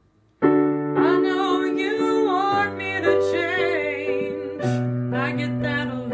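Piano chords starting about half a second in and changing every couple of seconds, with a voice singing a wordless, wavering melody over them: the intro of a piano ballad.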